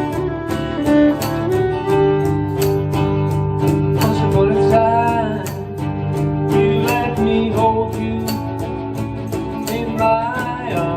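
A band playing an instrumental break of a country song: guitar lines over a steady beat, with a few gliding notes.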